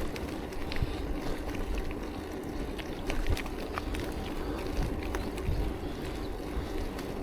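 Riding noise from a bicycle on a path: a steady rush of tyre and wind noise with a low hum, dotted with small clicks and rattles.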